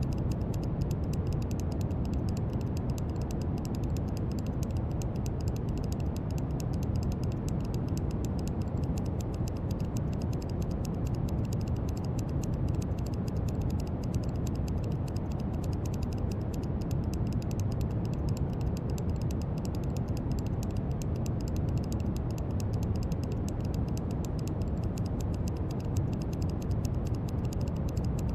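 Brown noise: a steady, deep, even hiss weighted toward the low end, with a faint dense patter of tiny clicks in the highs.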